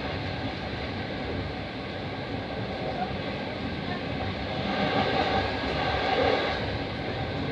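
Passenger train running, heard from inside the carriage: a steady rumble of wheels on the track. It grows louder for a couple of seconds past the middle.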